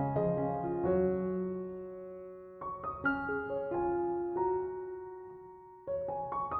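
Background music: slow, gentle piano chords, each struck and left to ring and fade.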